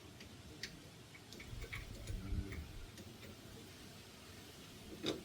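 Scattered light clicks and taps of hand tools and metal parts being handled, with a low thud about two seconds in and a sharper knock near the end.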